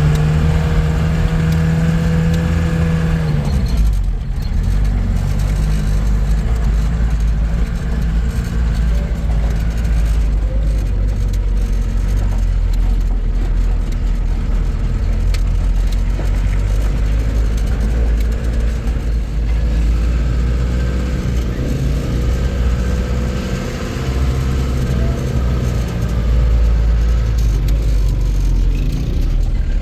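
A motor vehicle running on the move, a steady low engine and road rumble; the engine's tone changes about three and a half seconds in.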